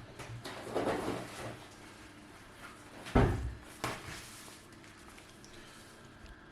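Household handling sounds: a rustling scrape, then a heavy knock just over three seconds in and a lighter knock shortly after.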